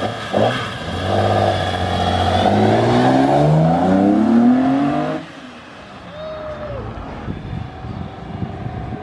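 BMW E34 M5's S38 straight-six, fitted with velocity stacks on its individual throttle bodies, accelerating hard away, its intake noise rising steadily in pitch for about four seconds. The sound drops off suddenly about five seconds in, leaving fainter street noise.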